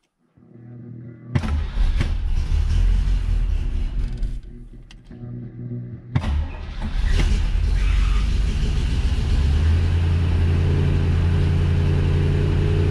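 Cold start of a 1965 Corvette's fuel-injected 327 V8: the engine fires about a second in and runs, falls away about four seconds in, catches again on the key about six seconds in, then settles into a steady fast idle.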